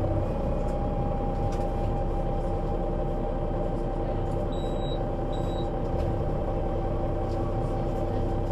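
Solaris Urbino 12 III city bus with a Voith automatic gearbox running steadily, a constant whine over a low drone. Two short high beeps come about halfway through.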